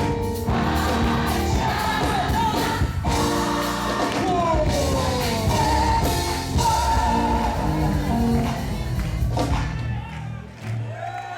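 Live gospel praise song: a choir and singers over a band, thinning out near the end.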